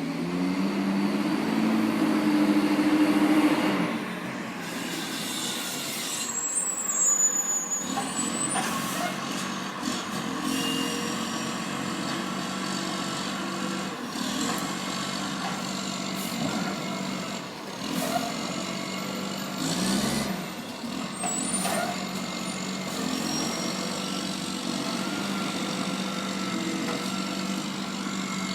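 Rubbish truck engine running steadily, with several short hisses of air brakes.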